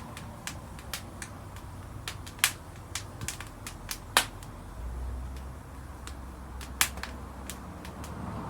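Wood fire crackling, with irregular sharp pops; the loudest pops come about two and a half and four seconds in.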